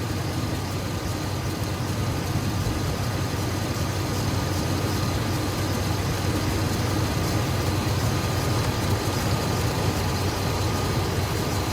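1998 Chevy C/K 1500's 5.7-litre V8 idling steadily while it warms up after a coolant refill, bringing the thermostat open.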